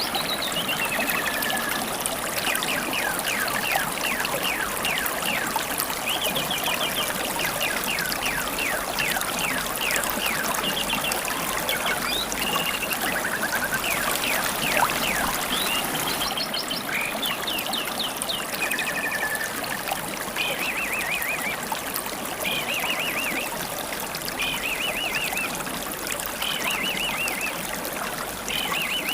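Clear river stream babbling steadily, with wild songbirds chirping and trilling over it in short rapid phrases.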